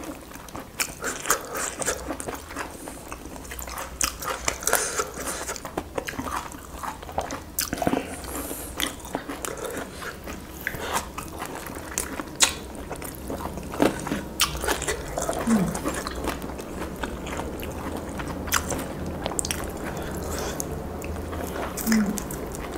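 Close-miked eating of roast chicken by hand: chewing and biting with many irregular, sharp, wet mouth clicks.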